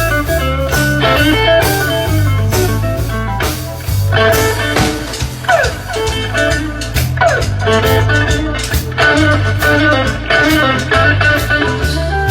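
A blues-rock band playing with guitar, bass line and drum kit, and no singing. Twice around the middle, a note slides down in pitch.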